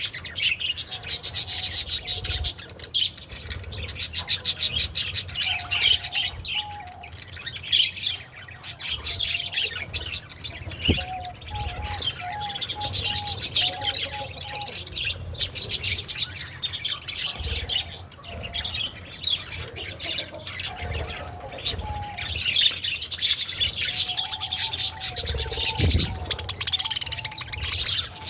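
Many small birds chirping and chattering together without a break: a busy mix of rapid high twitters. Short, lower whistled notes come through at intervals, several in a row at times.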